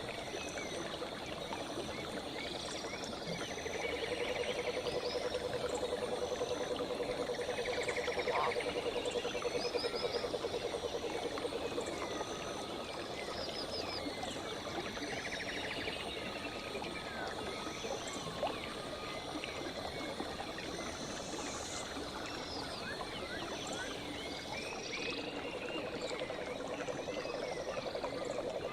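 Flowing river water with many birds chirping and calling over it. A frog's low, fast-pulsing trill starts about four seconds in, lasts about eight seconds, and comes back near the end. A steady high tone runs underneath.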